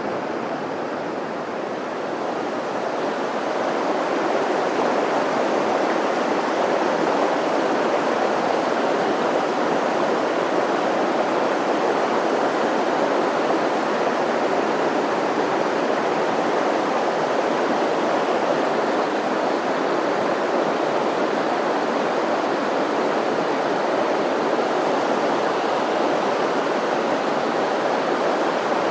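Mountain stream water rushing steadily, a little louder from about three seconds in.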